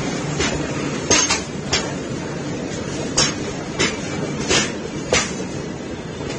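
Freight train wagons rolling slowly past: a steady rumble with sharp metal clanks from the wheels every half second to a second.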